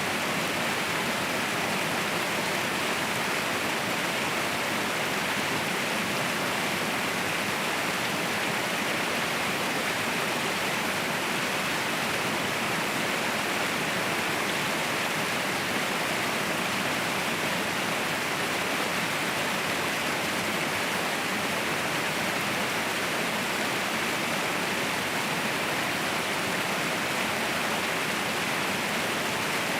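Mountain waterfall roaring: a steady, unbroken rush of falling water.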